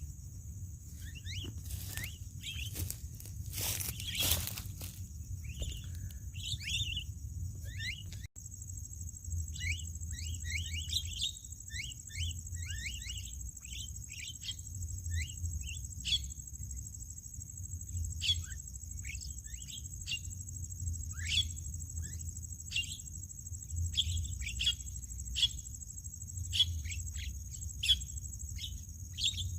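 Starlings (jalak) calling in a rapid series of short, falling chirps, several a second, over a steady high-pitched buzz. A few sharp knocks sound in the first few seconds.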